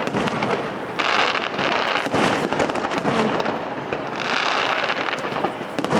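Fireworks display: a dense, continuous crackle of many small pops and bangs. It swells in fresh bursts about a second in and again around four seconds in.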